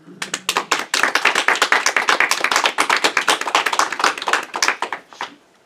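Small audience clapping. The clapping starts up just after the start, runs dense and irregular, and thins out near the end.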